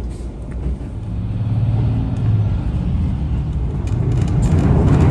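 Diesel railcar running, a steady low engine hum and rumble heard from inside the carriage, growing louder about a second in.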